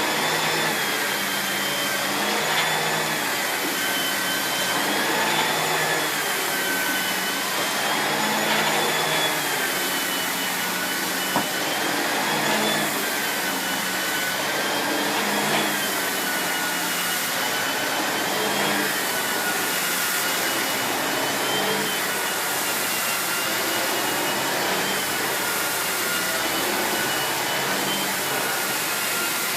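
Miele S8730 (C3 Complete) 2200 W cylinder vacuum cleaner running with an STB205 turbo brush on carpet. It is a steady suction rush with a motor whine whose pitch dips and rises about every three seconds.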